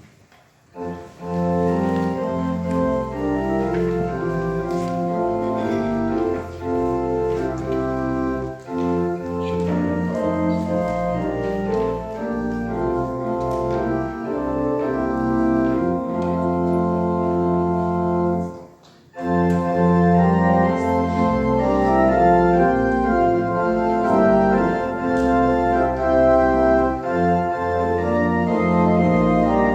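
Church organ playing sustained chords over a moving bass line. It starts about a second in, stops briefly about two-thirds of the way through, then resumes a little louder.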